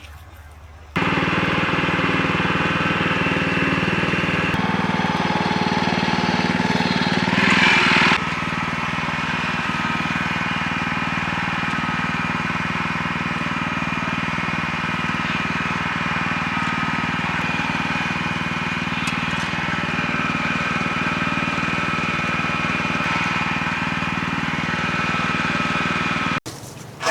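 A small engine running steadily. It comes in suddenly, grows briefly louder about eight seconds in, and cuts off near the end.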